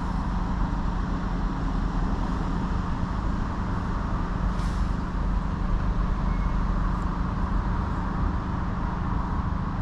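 Steady low mechanical drone, with steady engine-like tones under a noisy hiss. Two faint knocks come about halfway through.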